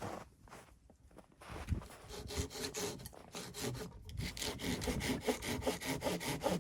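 Hand saw cutting through wood in back-and-forth strokes, a few uneven strokes at first, then settling into a steady, even rhythm about four seconds in, typical of sawing firewood for a wood stove.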